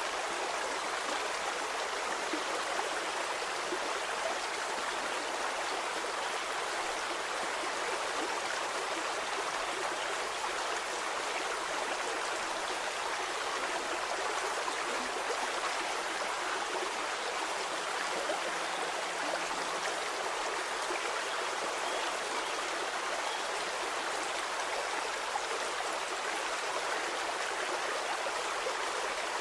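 Stream water flowing steadily, a continuous rushing and babbling with no breaks.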